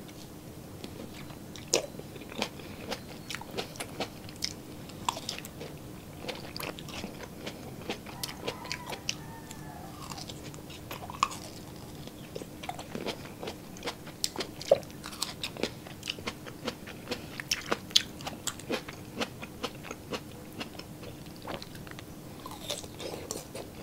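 Close-miked eating by hand: wet chewing, biting and mouth clicks as tomato slices and sweet cured pork (tocino) are chewed, a dense, irregular run of small sharp clicks and crunches.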